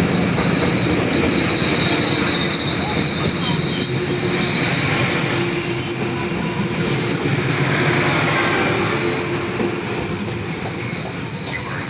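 Metrolink commuter train running on the rails with a steady high-pitched steel wheel squeal over the rumble of the cars; the squeal drops out about halfway and comes back near the end.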